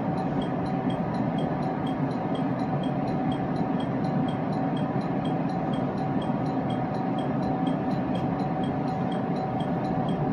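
Steady interior drone of a commuter electric train, with a constant tone running through it and faint regular ticking about two or three times a second.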